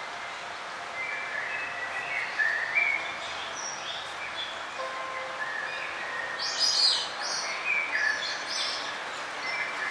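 Small songbirds chirping and trilling in short, scattered phrases, with a cluster of louder high notes about seven seconds in, over a steady outdoor hiss.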